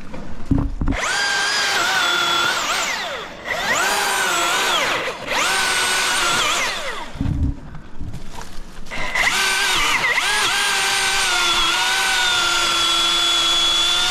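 Milwaukee battery-powered chainsaw running in three short bursts and then one longer run, cutting wood. It makes a high electric-motor whine with the chain rasping, and the pitch sags and recovers as the chain loads in the cut. There are short low thuds between the runs.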